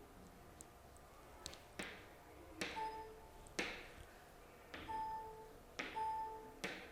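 A series of about seven sharp taps or clicks, three of them followed by a short electronic ding lasting under half a second.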